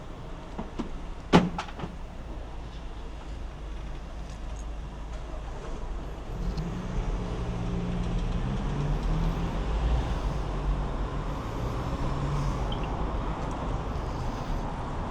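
Street traffic with a sharp knock about a second in, then a heavy road vehicle's engine running close by from about six seconds in, a low hum that grows louder and holds for several seconds.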